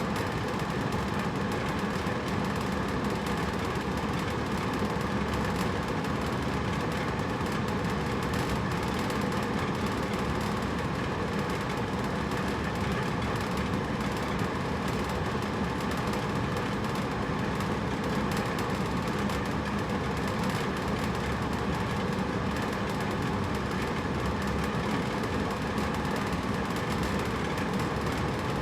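Hotel room air conditioner running steadily: an even fan rush with a low hum underneath.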